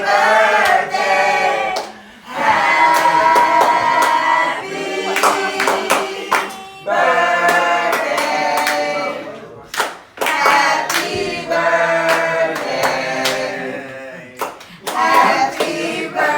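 A group of people singing together in phrases of a few seconds, with hand claps.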